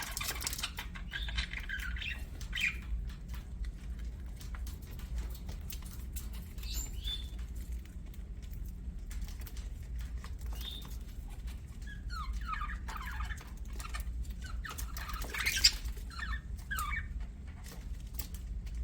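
Budgerigars chirping and chattering in scattered short calls, with one sharper, louder call about two-thirds of the way through. Many small clicks and taps run through it, over a low steady hum.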